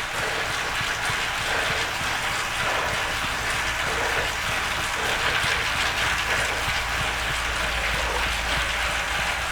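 Bicycle pedalled on an indoor trainer: a steady whir of the chain drivetrain and trainer under hard, constant effort.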